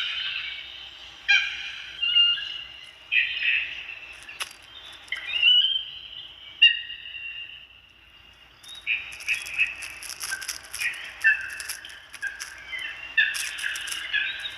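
Birds chirping and calling in a series of short, high, pitched calls and quick glides, with a brief lull partway through and bursts of crackling noise in the second half.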